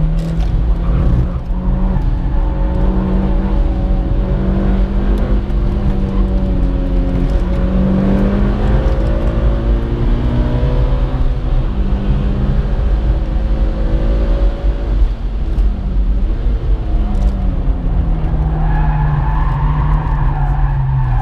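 Mitsubishi Lancer Evolution IX's turbocharged four-cylinder engine heard from inside the cabin at track speed, its pitch climbing and dropping with gear changes and braking. Near the end the tyres squeal as the car slides.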